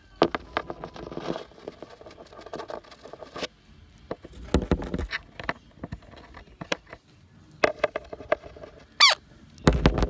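Pet bird chattering to itself with squeaks, clicks and short chirps, and a whistled call about nine seconds in. There are scattered taps and a few heavier knocks.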